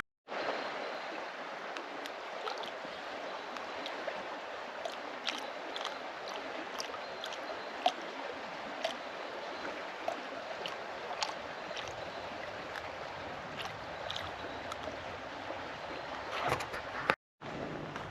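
Water running and lapping along a shoreline, an even rushing wash dotted with small splashes and ticks.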